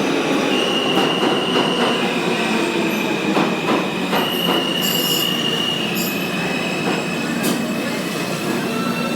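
New York City Subway R160A-2 train pulling into a station. The wheels squeal in sustained high-pitched tones over the rumble of the cars, with scattered clicks from the wheels over the rails.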